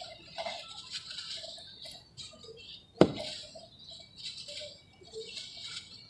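Dry sand-cement lumps crumbling, small crackles and grains pattering, with one sharp crack about three seconds in.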